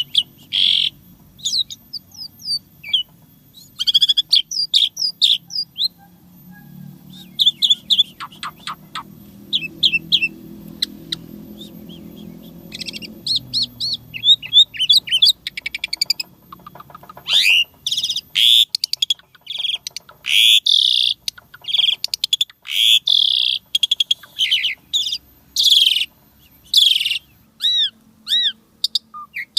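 Asian pied starling (jalak suren) singing a busy, varied song of short chirps, sweeping whistles and harsher notes. It ends with a run of repeated arched whistles.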